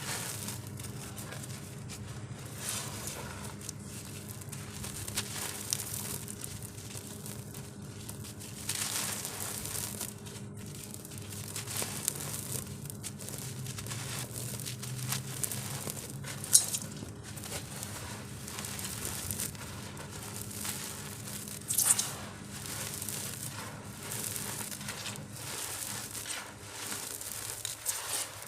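Dry, dusty molded crumble shapes being crushed, giving a continuous crackling crunch. There are two sharper cracks, about 16 and 22 seconds in.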